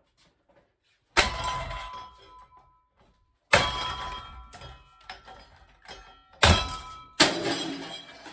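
A shovel striking a cheap Seasons ceiling fan four times, hard metallic clangs, each ringing and dying away over a second or two.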